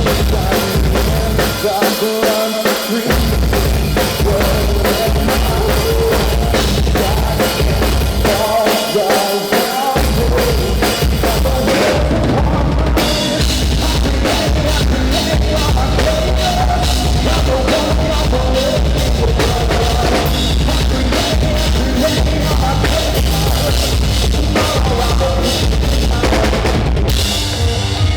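Live band playing loud rock music, driven by a full drum kit with bass drum and snare, over bass and other instruments; the cymbals and highs drop out briefly about twelve seconds in and again near the end.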